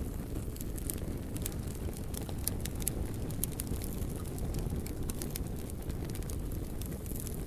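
Wood fire burning, with a steady low rumble and frequent sharp crackles and pops.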